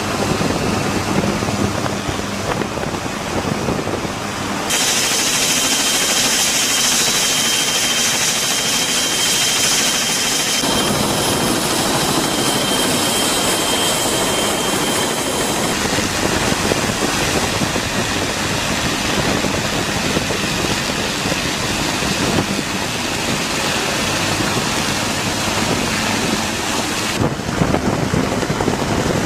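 Helicopter noise: a steady rush of turbine and rotor that changes abruptly in character several times, with a thin high whine through the middle stretch.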